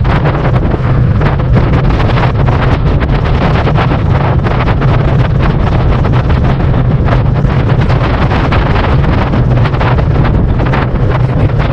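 Wind buffeting a GoPro's microphone while cycling: a loud, steady rumble with constant short crackles.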